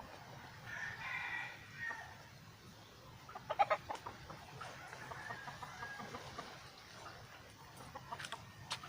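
Chickens clucking and calling: a drawn-out call about a second in, a harsh burst at about three and a half seconds, then softer clucks, with a few sharp clicks near the end.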